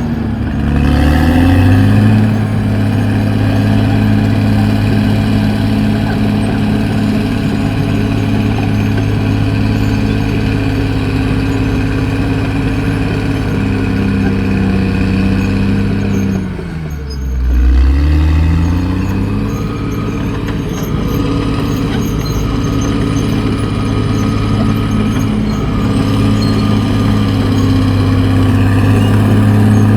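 Caterpillar D6R XL bulldozer's diesel engine running loud and steady at working speed. Twice, about a second in and again a little past halfway, the engine pitch falls and then climbs back up.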